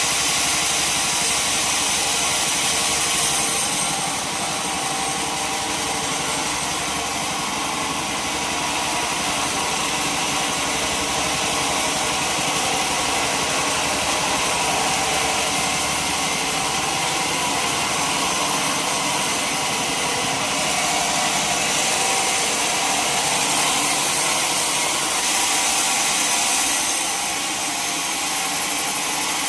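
Sawmill machinery running steadily: an engine and a saw with a loud, even hiss, swelling slightly a little before the end.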